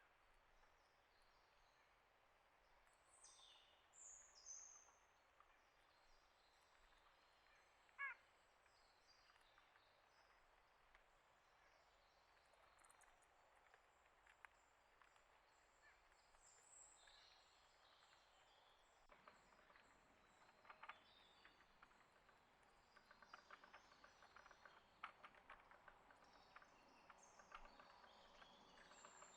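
Very faint outdoor ambience with small wild birds chirping and calling now and then, one short call louder than the rest about eight seconds in. In the last third, a scatter of faint ticks and clicks.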